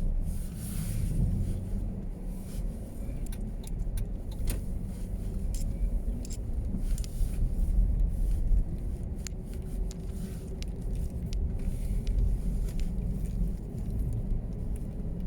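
Car driving: a steady low engine and road rumble, with scattered light clicks and rattles.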